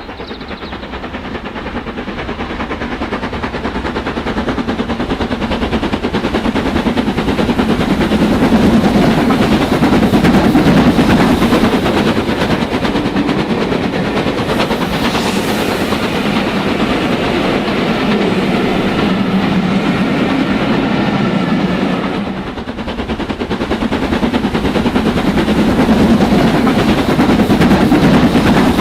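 Model train running on the layout's track, its wheels making a dense, rapid clatter over the rails. It grows louder over the first several seconds, dips briefly about two-thirds of the way through, then builds again.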